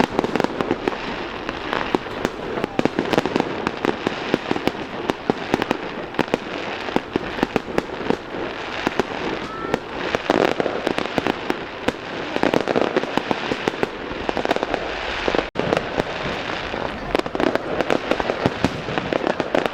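Fireworks going off in rapid, continuous bangs and crackles, many overlapping shells bursting over a steady hiss of crackling.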